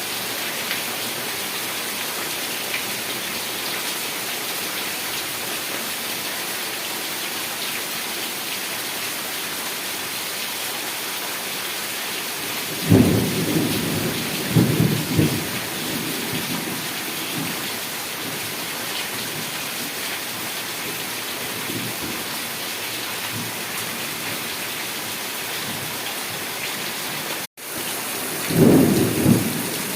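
Heavy rain falling steadily, with low rumbles of thunder about halfway through and again near the end. Just before the last rumble the sound briefly cuts out.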